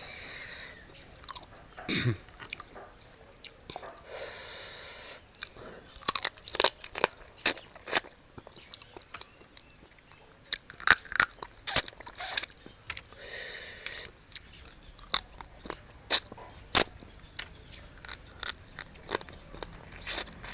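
Close-up eating of spicy seafood papaya salad: chewing and crunching with many sharp, irregular cracks, and a couple of longer hissy sounds, near 4 seconds in and again past the middle.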